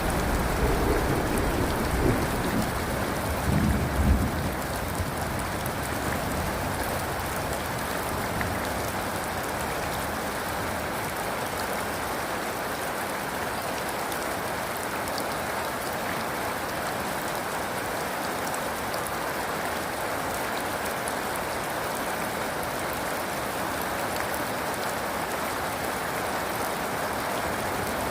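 Steady rain falling, with a low thunder rumble in the first few seconds that dies away by about five seconds in, leaving only the rain.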